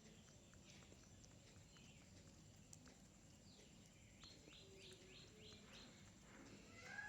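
Faint chirping of small birds, with a quick run of about five short high notes about four seconds in and a few more notes near the end, over scattered soft ticks.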